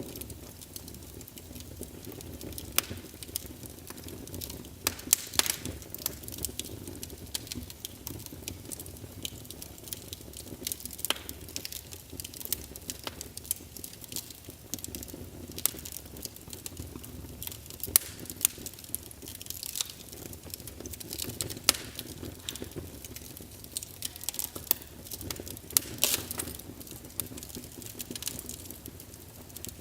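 Small wood fire in a fireplace crackling, with sharp, irregular pops and snaps over a low, steady rumble of the flames.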